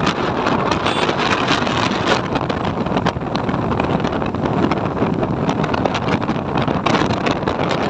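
Steady rush of wind buffeting the microphone on a moving motorcycle, with the bike's running and road noise underneath.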